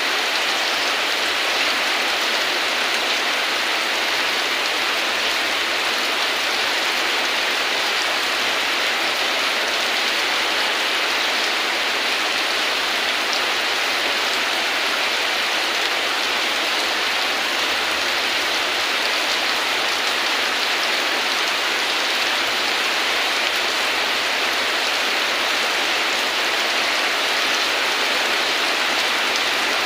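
Steady rain falling, an even hiss with no thunder or single loud strikes standing out.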